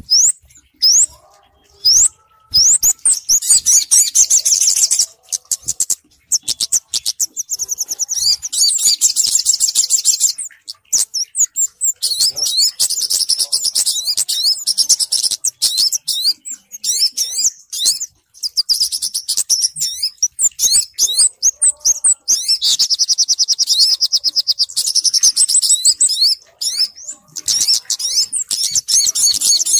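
Bird-lure recording of small songbirds, kemade combined with sogok ontong (olive-backed sunbird): rapid, high-pitched chirps and trills in runs of a few seconds with short breaks between them.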